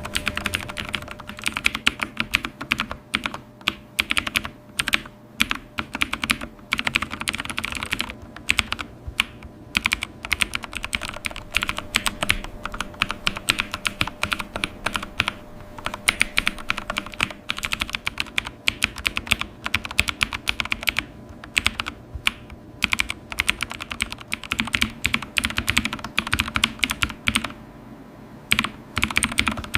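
Typing on a computer keyboard: quick, irregular runs of key clicks with brief pauses, and a faint steady hum underneath.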